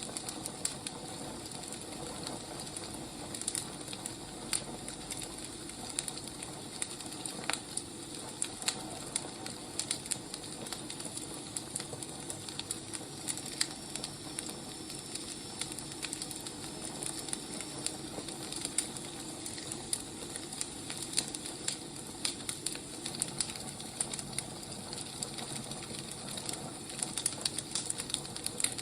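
Wood fire burning, a steady hiss with frequent small, irregular crackles and pops.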